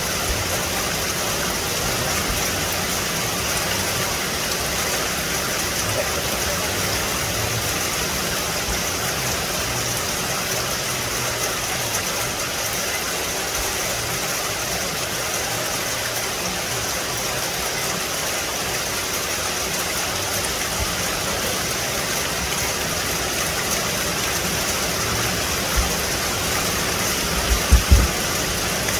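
Steady rain falling on forest foliage, an even hiss with no change in strength. A few short low thumps come near the end.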